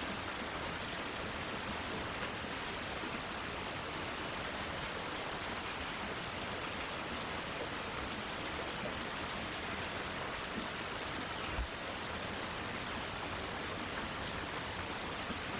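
Steady rain falling, an even hiss with a few faint drip ticks. A single low thump stands out about three quarters of the way through.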